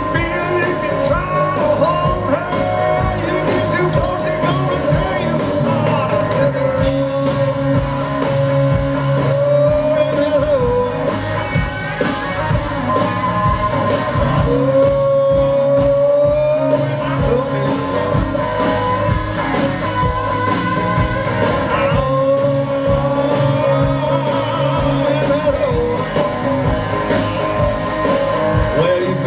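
Live electric blues-rock band playing loudly, with singing and guitar over bass and drums, full of long held notes that bend slightly in pitch.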